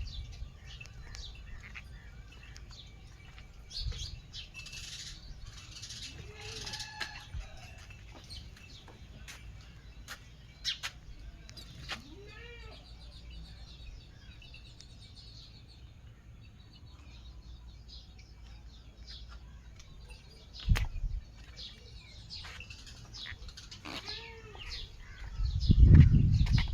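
Birds chirping throughout, with about four short calls from a larger animal that rise and fall in pitch. A loud low rumble comes near the end.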